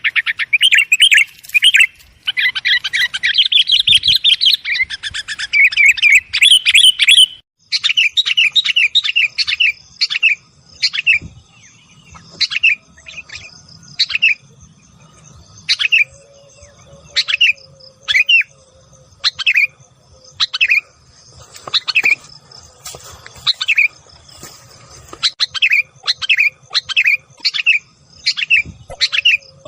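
Sooty-headed bulbul (kutilang) agitated chattering, the kind used as a lure call to draw in bulbuls. It is a dense, rapid chatter for about the first seven seconds, then breaks into separate short chirps about one a second.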